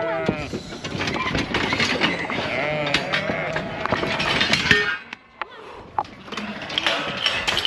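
Lambs and sheep bleating, many calls overlapping, going quieter for about a second past the middle.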